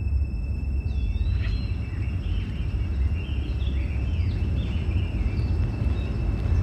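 Outdoor ambience: birds chirping in short curving calls from about one to five seconds in, over a steady low rumble and a constant thin high tone.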